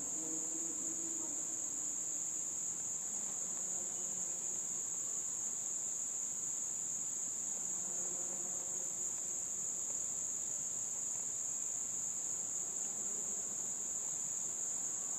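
Steady, high-pitched insect chorus that is the loudest sound throughout. Under it a faint distant dirt bike engine rises and falls in pitch, mainly in the first couple of seconds and again about eight seconds in.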